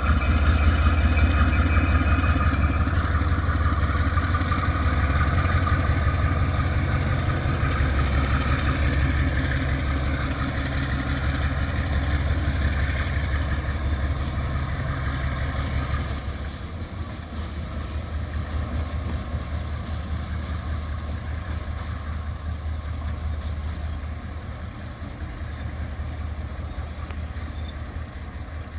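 Diesel-electric freight locomotive engine running with a deep steady drone, dropping noticeably in level a little past halfway through.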